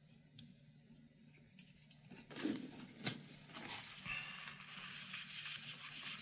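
Small clicks and rustling from handling a PC power-supply fan while its cover is fitted back on, with one sharp click about three seconds in. From about four seconds on there is a steady high hiss.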